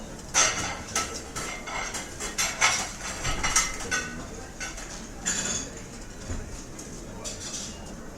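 Restaurant ambience: cutlery and dishes clinking and clattering, with a burst of quick clinks in the first half and more about five seconds in, over a low hum of room noise.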